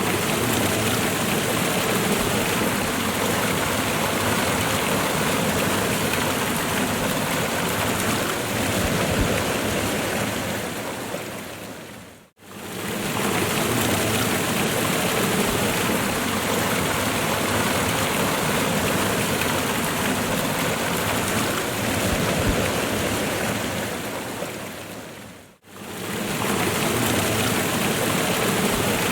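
Waterfall water rushing and splashing in a steady, dense roar of noise. It fades out and back in twice.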